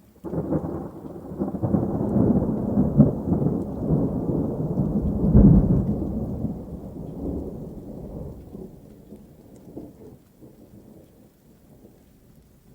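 A thunderclap that breaks suddenly and rolls on as a deep rumble, swelling to its loudest about five seconds in, then dying away slowly over the last few seconds.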